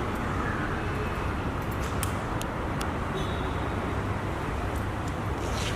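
Steady low outdoor rumble, like road traffic, with a few faint clicks about two seconds in.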